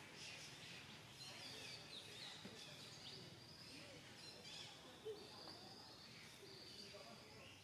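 Faint outdoor ambience of small birds chirping and whistling in the background, with one brief louder sound about five seconds in.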